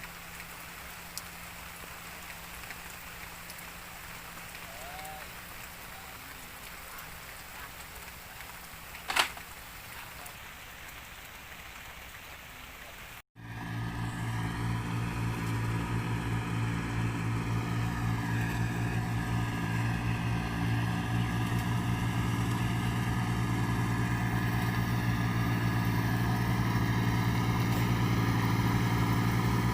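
An even hiss for the first part, with one sharp click about nine seconds in. After an abrupt cut, a tractor engine runs steadily, slowly growing louder.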